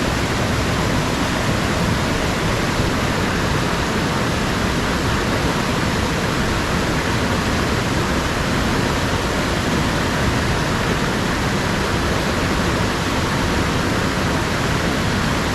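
Steady rushing of a mountain stream's water tumbling over rocks, a loud, even wash of sound that does not change.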